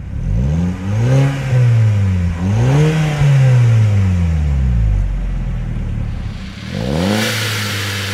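Volkswagen Golf GTI Mk5's 2.0 TFSI turbo four-cylinder with a Borla cat-back exhaust, revving up and back down twice. It settles low for a couple of seconds, then revs up again near the end.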